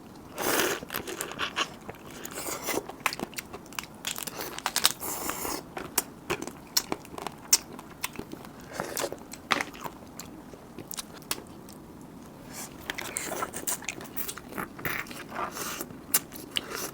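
Eating a crab close to the microphone: shell cracking and crunching in short, sharp, irregular crackles, with biting and chewing between them.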